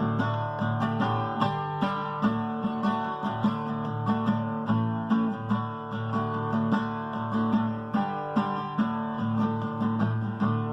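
Acoustic guitar strummed and picked in a steady rhythm: an instrumental break in a folk song.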